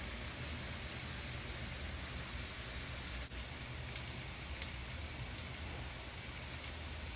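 Chinese potato stir fry sizzling softly in a pot on the stove, a steady even hiss that briefly drops out about three seconds in.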